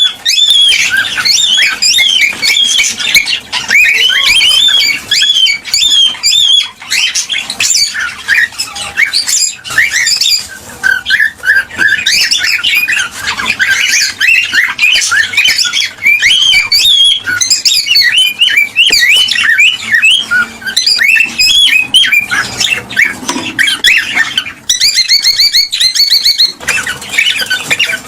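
Cockatiels chirping, whistling and squawking continuously in dense, overlapping calls, with a fast run of repeated chirps a few seconds before the end.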